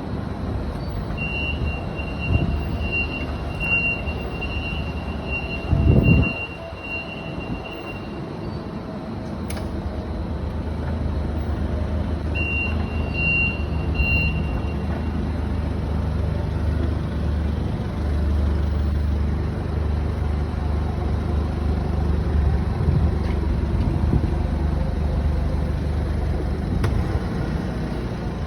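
Cat GP18N5 forklift engine running steadily, with a high-pitched reverse alarm beeping as it backs up: once for about seven seconds and again briefly about twelve seconds in. A short loud burst of noise comes about six seconds in.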